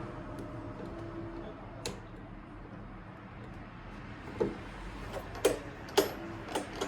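Yamaha Jog ZR Evolution 2 scooter's small engine idling at a low, steady level, with a few sharp clicks about two-thirds of the way in.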